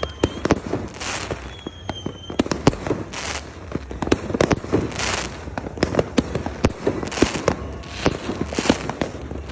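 Fireworks going off in quick succession: many sharp bangs, several a second, mixed with short bursts of crackling hiss. A faint whistle sounds about two seconds in.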